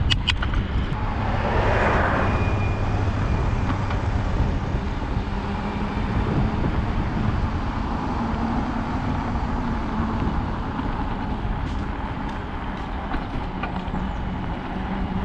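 Road traffic heard from a moving bicycle: a steady low rumble of passing vehicles, with a burst of hiss about two seconds in.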